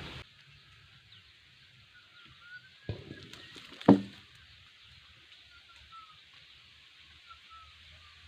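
A Maestro 6500L chainsaw cuts off just as the sound begins. Then a quiet outdoor background with two short, sharp sounds, about three and four seconds in; the second is much louder.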